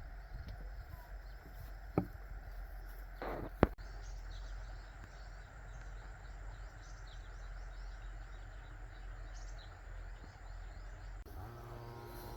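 Small birds chirping in short, repeated calls over a steady low outdoor rumble. Two sharp knocks sound in the first few seconds.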